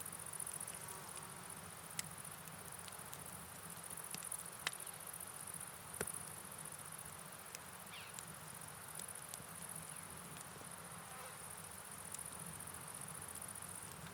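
Steady night ambience: a continuous high insect chirring over an even hiss of rain and running water, with a few sharp campfire crackles about two, four and a half, and six seconds in.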